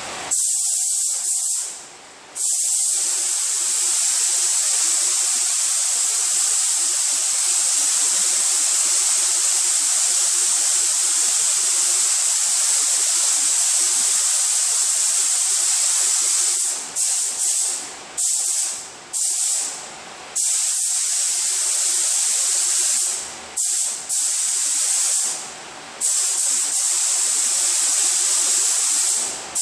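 Compressed-air paint spray gun spraying a coat of paint: a loud, steady hiss, broken by short pauses about two seconds in and several times over the last third.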